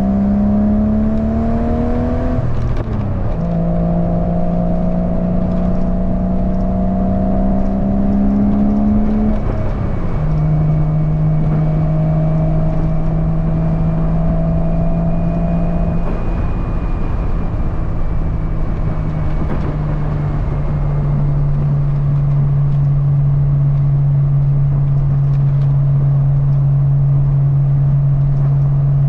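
1997 Porsche 986 Boxster's 2.5-litre flat-six running through an aftermarket cat-back exhaust, accelerating through the gears of its manual gearbox: the engine note rises, drops at upshifts about three and ten seconds in, then settles to a steady cruise. Wind noise from the open top runs underneath.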